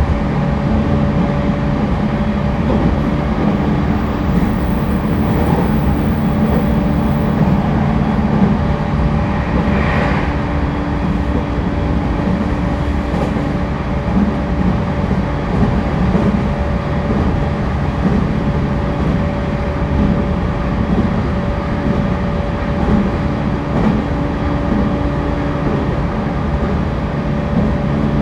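Cabin running sound of an E231-1000 series commuter electric train travelling between stations: a steady rumble of wheels on rail with a constant motor hum and a second, lower tone that comes and goes. A brief hiss rises about ten seconds in.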